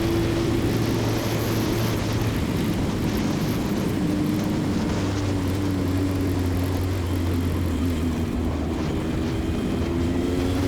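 Single-seater race car's engine running at low, fairly steady revs while the car rolls slowly, heard from an onboard engine and chassis mic. The pitch sags a little, then rises near the end as the throttle is opened.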